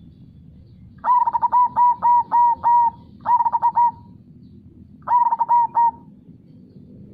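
Zebra dove (perkutut) cooing in three rapid phrases of repeated notes, the first long and the other two short, over a steady low rush of flowing river water.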